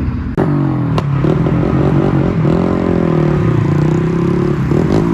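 A vehicle engine revving loudly, its pitch climbing and falling and then held high, with two sharp cracks about half a second and a second in.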